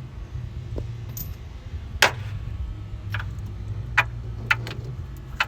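Sharp metallic clinks of hand tools working on a truck engine while spark plugs are removed, half a dozen scattered from about two seconds in, over a steady low hum.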